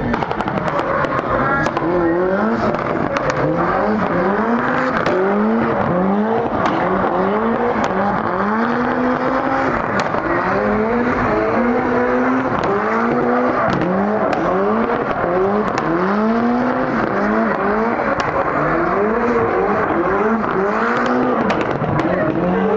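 Mitsubishi Lancer Evolution's turbocharged four-cylinder engine revving up and down over and over as the car spins donuts, tyres squealing. The anti-lag system pops and crackles between the revs.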